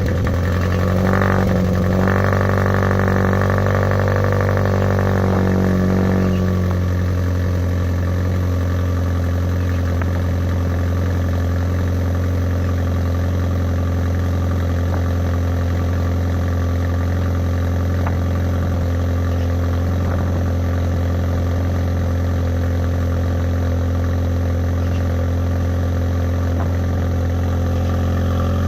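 Opel Corsa B engine idling just after a cold start, heard through a DTM-style exhaust with only a catalytic converter and no mid resonator. The note is fuller for about the first six seconds, then settles into a steady low idle.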